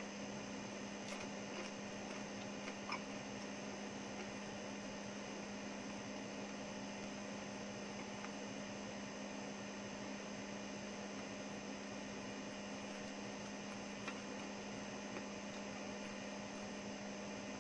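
Steady electrical hum over a low, even hiss, with a few faint clicks.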